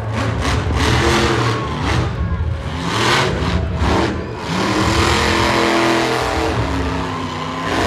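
Monster truck engine revving, its pitch rising and falling in repeated swells.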